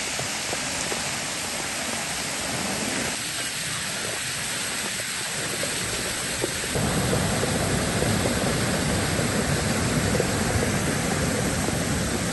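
Rushing floodwater, a steady noise that gets louder and deeper about seven seconds in.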